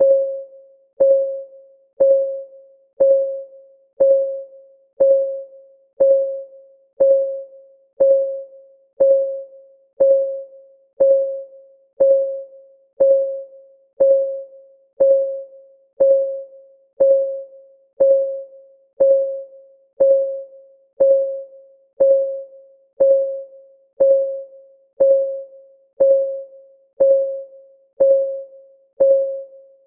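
Countdown timer's clock-ticking sound effect: a short pitched tick once a second, each dying away quickly, in an even unbroken rhythm.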